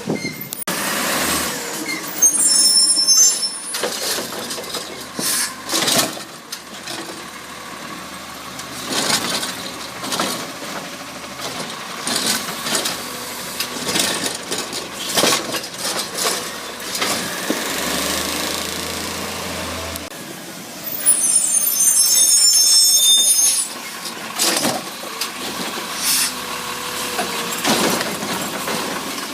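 CNG-powered Autocar ACX garbage truck with a Heil Rapid Rail side-loader body working: the engine runs under repeated clanks and knocks. Two loud hisses of released air come about two seconds in and again past the twenty-second mark.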